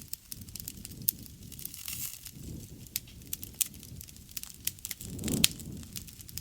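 Wood fire crackling, with irregular sharp pops over a low rush of flames; one louder pop about five seconds in.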